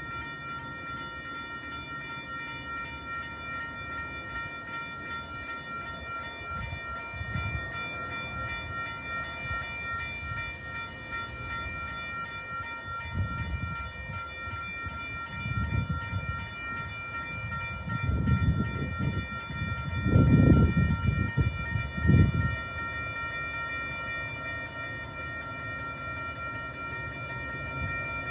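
A train at the station, with a steady chord of high tones throughout. Low rumbling rises in swells through the middle and is loudest a little past two-thirds of the way in before easing back.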